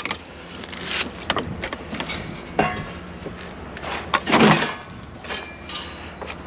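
Scattered knocks and clanks of junk being handled, with a louder clatter about four seconds in, over a faint steady low hum.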